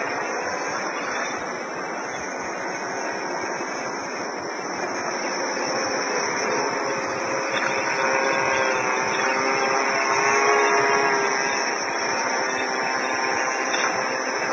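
XAircraft X450 quadcopter in flight, its electric motors and propellers buzzing under a steady rushing noise, with several tones that waver in pitch in the second half as the throttle changes.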